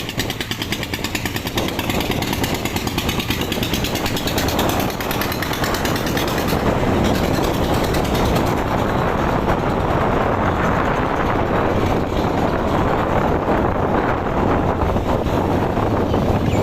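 Motorcycle engine running while riding, with a fast, even firing pulse. A rushing noise builds up and grows louder after about five seconds.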